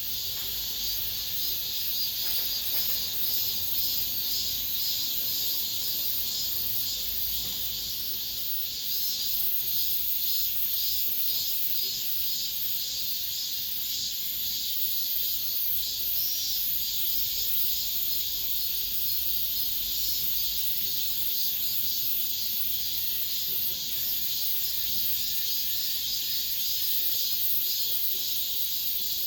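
Chorus of many cicadas singing at once: a dense, steady, high-pitched buzz with a fast pulsing texture.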